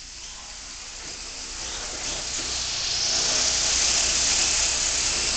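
Electric RC helicopter's motor and rotor running with a whooshing whir of rotor wash, growing steadily louder over the first few seconds and then holding steady.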